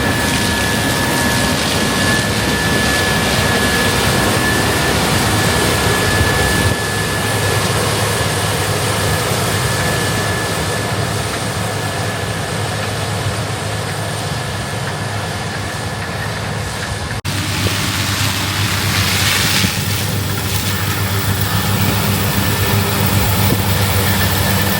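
CASE Axial-Flow combine harvester running while harvesting corn: a loud, steady machine drone with a thin high whine over it. The sound changes abruptly about seventeen seconds in.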